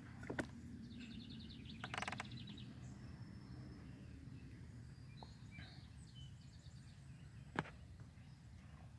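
Songbirds calling in short, fast high trills over a steady low background rumble, with one sharp click about seven and a half seconds in.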